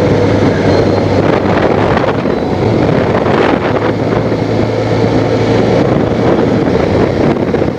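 Honda Crosstourer's V4 engine running steadily while the motorcycle cruises, with wind rushing over the action camera's microphone.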